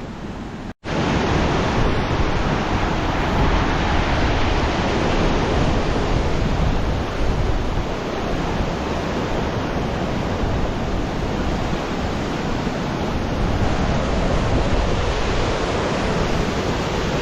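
Steady rushing of a river running fast below, with wind rumbling on the microphone. A momentary cut to silence about a second in, after which the rush is louder.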